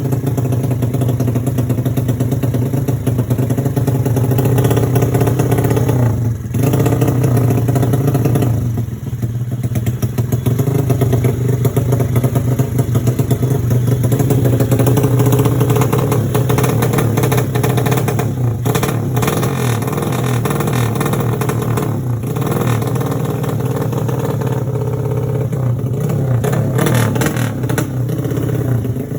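Honda Supra underbone motorcycle engine running with a loud, fierce exhaust note, holding steady with brief dips in revs around 6 and 9 seconds in.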